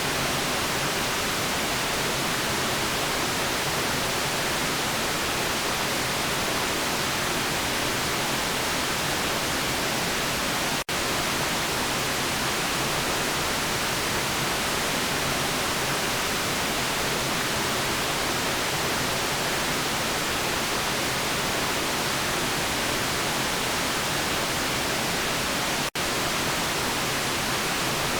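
Steady white noise, an even hiss with no change in level, that drops out for an instant twice: about eleven seconds in and near the end.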